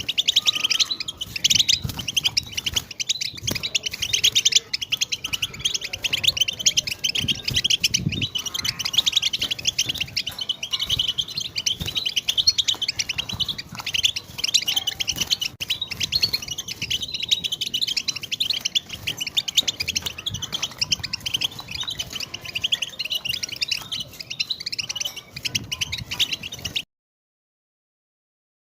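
European goldfinch twittering: a fast, unbroken stream of high chirps and chatter, the 'batbata' song that keepers play to stir silent goldfinches into singing. It breaks off suddenly near the end.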